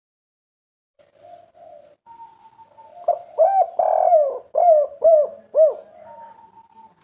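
Spotted dove (derkuku) singing its 'kuk 3' song: a few soft coos, then about two seconds in, a run of five or six louder, arched coo notes in quick succession before it tails off into soft cooing.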